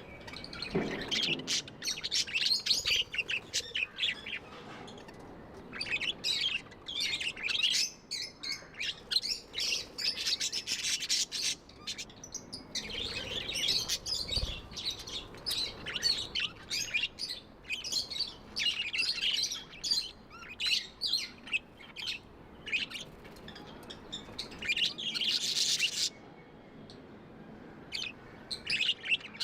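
Budgerigars chirping and warbling in a dense, rapid stream of short high chirps, with a brief pause near the end.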